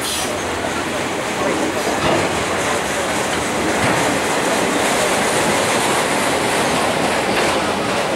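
Autorack freight cars rolling past on the track: a steady noise of steel wheels on the rails, with a few faint clicks from the wheels.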